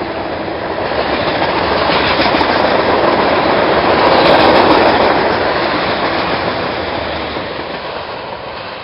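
Freight train cars rolling past, steel wheels clattering over the rail joints. The sound swells to its loudest around the middle, then fades steadily toward the end.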